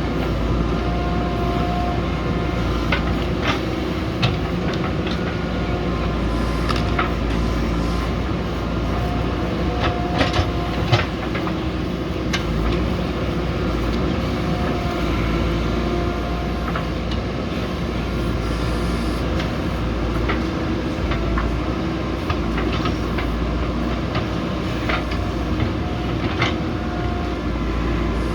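JCB backhoe loader's diesel engine running steadily, with scattered sharp metallic clanks from the working machine.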